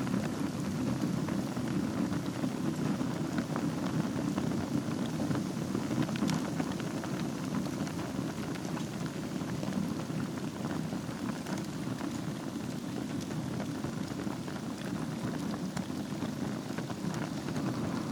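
Wood fire burning in a fireplace over a bed of embers: a steady low rush from the flames with scattered small crackles and pops.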